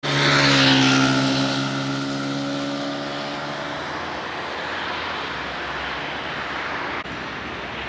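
An engine passing close by, loud at first, then fading over a few seconds as its pitch falls slightly. A steady outdoor background noise remains afterwards, with a brief dropout near the end.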